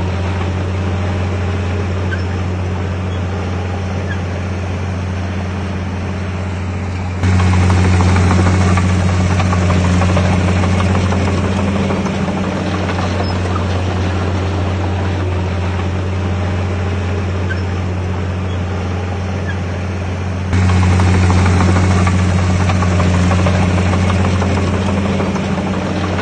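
Heavy diesel engine of a bulldozer running steadily under load, a deep drone. Twice, about 7 seconds in and again about 20 seconds in, it suddenly gets louder and then eases back down over several seconds.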